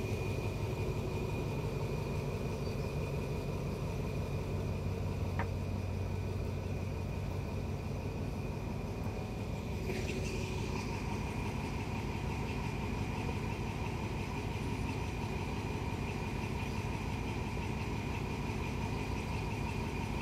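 A diesel train runs with a steady low engine hum and a thin, constant high tone over it. There is one brief hiss about halfway through.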